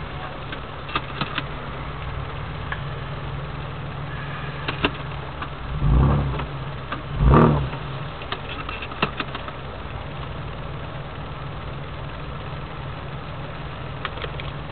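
Four-wheel drive's engine idling steadily while stopped, heard from inside the cab, with a few light clicks and two short louder low rumbles a little past the middle.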